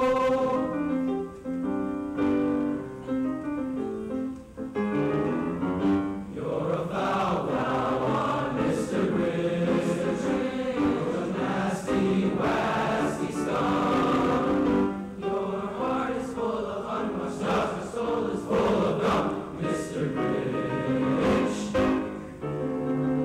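Junior high school choir singing in parts, with sustained, shifting chords throughout.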